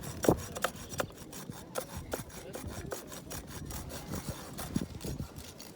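Firewood being cut by hand: a quick, irregular run of short, sharp wooden cracks and scrapes, several a second.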